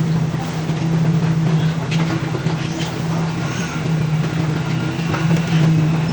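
An engine running steadily with an even low hum, with a few short knocks and scrapes over it.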